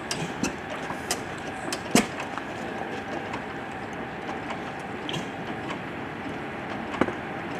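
Antique hit-and-miss stationary engines running, with a steady mechanical background and sharp pops at uneven intervals, the loudest about two seconds in and again near the end.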